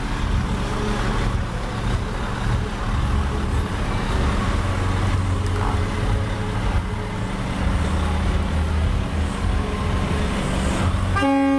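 Heavy truck engine rumbling as it pulls away, with traffic-like noise around it. Just before the end a loud steady horn-like chord sets in.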